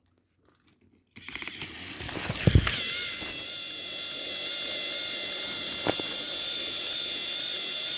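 Small electric motors and gears of battery-powered toy train engines whirring steadily as two engines push head to head, starting about a second in with a few clicks and a knock. Neither gives way, ending in a draw.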